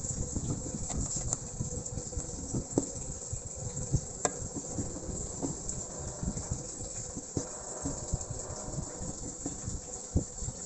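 Close-up eating sounds of a bowl of pork noodle soup: chewing, with scattered small clicks and low knocks, over a steady hiss.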